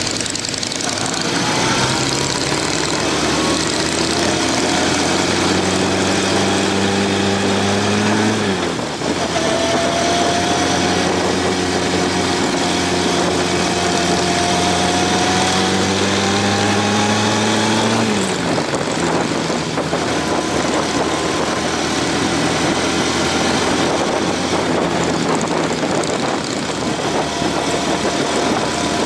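Honda CB750 air-cooled inline-four motorcycle engine pulling under way, its revs climbing steadily in gear and then dropping sharply with an upshift, twice over, before running at a fairly even speed. Heavy wind noise rushes over it throughout.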